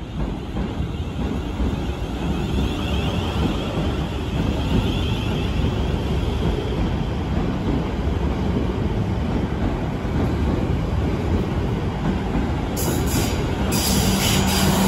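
South Western Railway electric multiple-unit train running into the platform past the camera, with a steady rumble of wheels on rail. High-pitched wheel squeals break in near the end.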